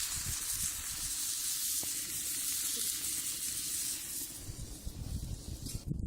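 Food sizzling in a skillet over a wood fire: a steady hiss that fades about four seconds in, giving way to a low rumble.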